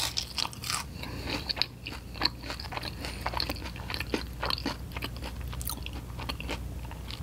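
A crispy McDonald's hash brown being bitten and chewed, with a bite at the start followed by irregular crunching throughout.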